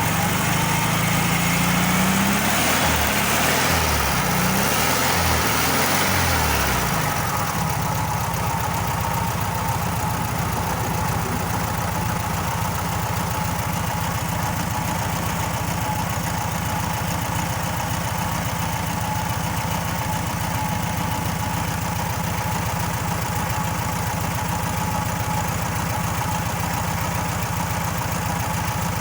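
1300cc Volkswagen Beetle air-cooled flat-four engine blipped up and down a few times over the first several seconds, then settling into a steady idle.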